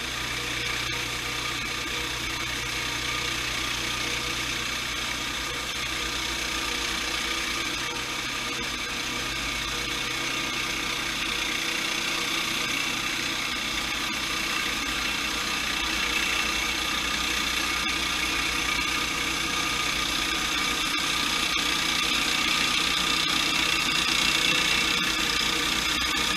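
Sawmill engine running steadily through a cut, growing slightly louder toward the end.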